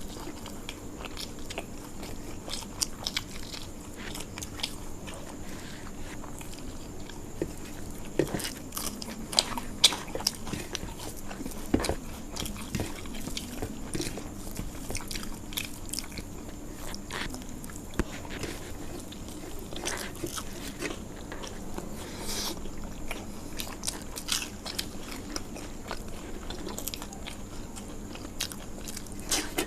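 Chewing and crunching of crispy fried small fish with rice, close to the microphone: irregular crisp crunches and mouth clicks.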